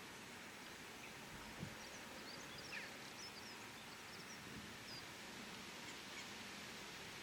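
Steady, faint outdoor background noise, with a few faint, high, quick bird chirps scattered through the middle.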